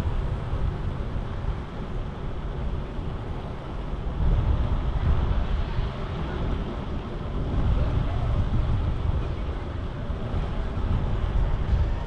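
Wind rushing and buffeting over the microphone of a moving bicycle rider, a low, unsteady rumble, mixed with city street traffic noise.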